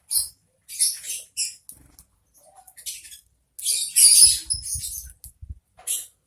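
Small wild birds chirping in short, sharp bursts, with the busiest chirping about four seconds in. A few low thuds sound underneath it.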